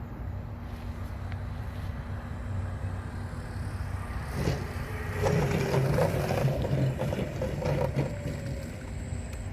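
Electric motor and propeller of a large RC airplane running, over a low rumble of wind on the microphone. It grows louder for a few seconds in the second half, with scattered clicks, and a tone falls in pitch near the end.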